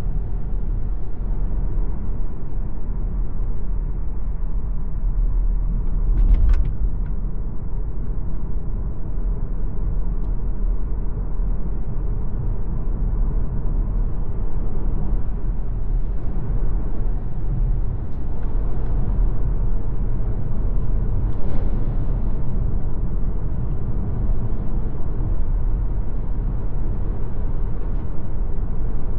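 MG ZS Hybrid+ on the move: a steady low rumble of road and wind noise, with a brief knock about six seconds in and another about twenty-one seconds in.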